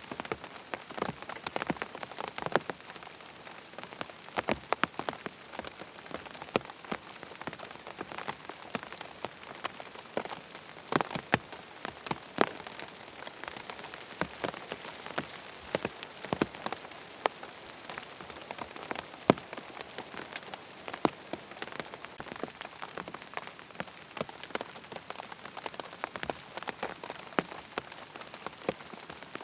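Steady rain falling, an even hiss with many irregular sharp drips and taps scattered through it.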